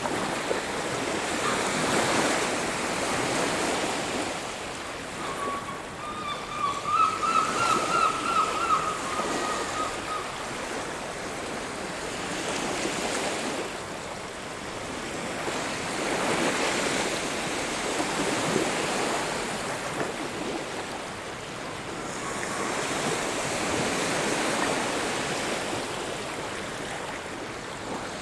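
Sea waves breaking and washing up a beach, the surf swelling and receding every several seconds. About five seconds in, a bird calls over it in a quick, wavering run for about five seconds.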